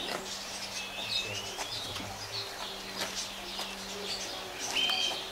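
Birds chirping, with a few short high whistled calls: one rising about a second in and a level one near the end. A faint low steady hum runs underneath.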